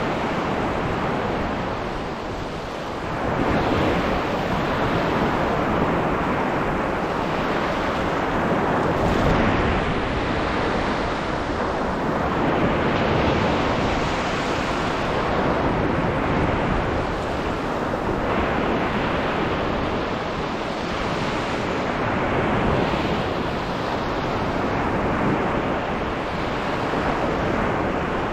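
Sea waves breaking and washing up a sandy beach: a continuous rush of surf that swells with each incoming wave every few seconds.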